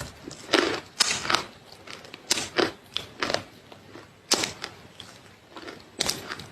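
Close-miked chewing of crunchy food: sharp, irregular crunches, some in quick pairs, with short pauses between bites.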